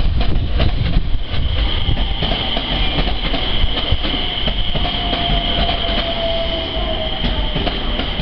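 JR West 227 series electric train pulling into a station platform and slowing. The wheels click over rail joints, a high steady squeal sets in about a second in, and a lower tone slowly falls in pitch as the train slows.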